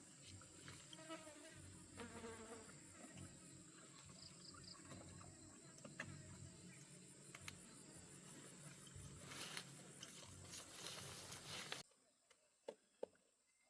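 Faint outdoor ambience with a steady high-pitched insect buzz, which cuts off abruptly near the end.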